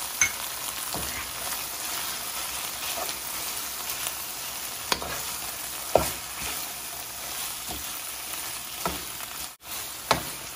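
Chicken in red curry paste sizzling steadily in a steel frying pan while a metal spoon stirs it, knocking and scraping against the pan now and then.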